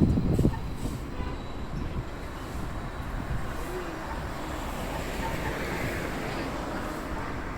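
Street traffic noise: a loud low rumble that drops away about half a second in, then a steady hum of traffic.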